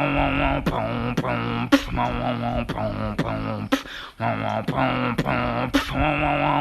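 Beatboxing: a vocal chest bass, held buzzing bass notes in short runs of about half a second, broken by sharp kick and snare clicks, with a brief drop-out about four seconds in.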